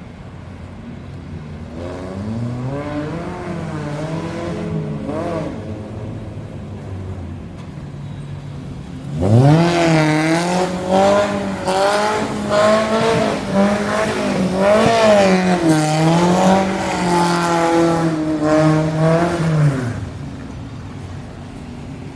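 Suzuki Katana's small four-cylinder engine being revved with the car standing: a few lighter revs in the first seconds, then about nine seconds in it is held high for roughly ten seconds, the pitch wavering up and down, before dropping back to idle near the end.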